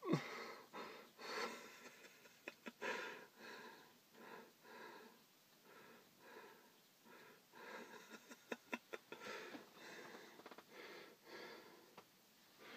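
Soft breathing close to the microphone, a slow run of faint puffs, with a few light clicks.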